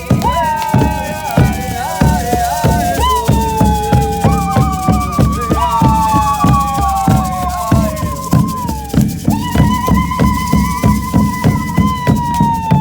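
Live band music: a high melody of long held notes that each slide downward, over a steady beat of drums and a shaker rattle.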